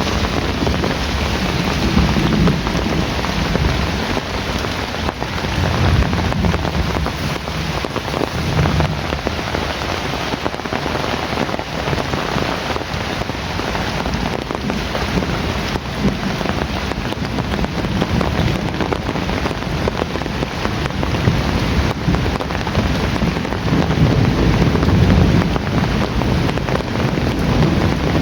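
Heavy rain falling steadily, with a few low swells of distant thunder.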